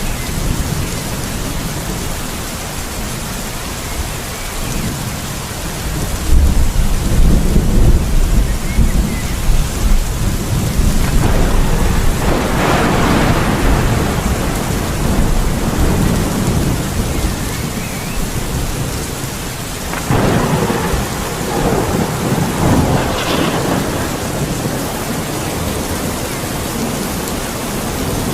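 Steady heavy rain with thunder: a deep rumble rolls in about six seconds in, breaks into a sharper crackling peal around twelve seconds, and a second peal sets off about twenty seconds in before easing back to rain.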